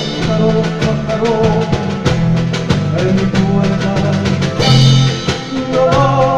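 Andean folk band playing an instrumental passage: a steady drum beat under a bass line and a melody, with a bright crash about two thirds of the way through.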